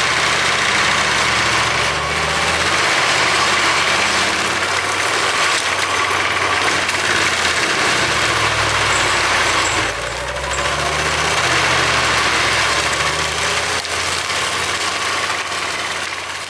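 Claas Xerion 3800 tractor's engine running with its AHWI forestry mulcher, a steady heavy drone under a loud rushing noise, easing briefly about ten seconds in and fading out near the end.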